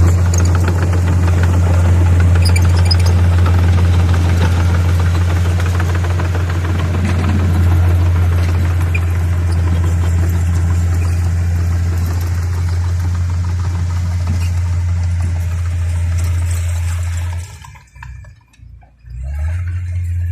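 Bulldozer's diesel engine running steadily with a deep, even hum. The sound drops out briefly near the end, then picks up again.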